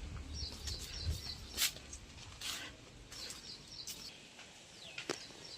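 Small birds chirping in short clusters of high notes, with a few sharp knocks or rustles in between.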